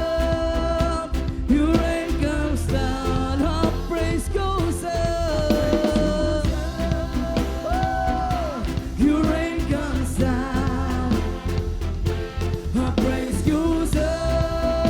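Live worship band playing an upbeat song, with drum kit, bass and long held sung notes over it.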